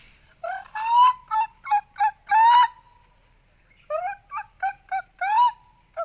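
A bird calling over and over: quick, clear pitched notes with a few longer rising ones, in two bouts with a pause of about a second between them.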